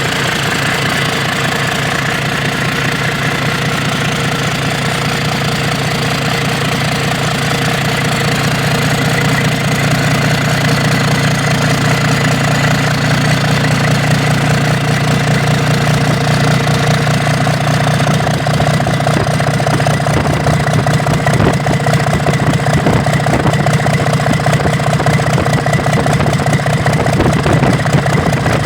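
Engine on a test run, running steadily with a fast, even firing beat, getting a little louder over the second half.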